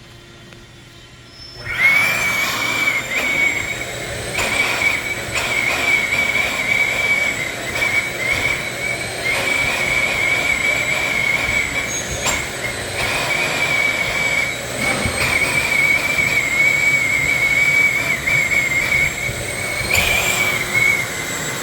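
Pneumatic conveying unit starting up about two seconds in and then running steadily with a high whine over a rushing hiss as it conveys gold sanding sugar.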